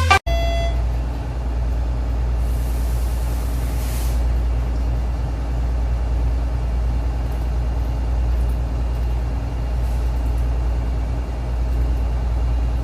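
Large marine diesel engine running with a steady, deep drone in a ship's engine room. A short hiss of air cuts in about two and a half seconds in and lasts about a second and a half.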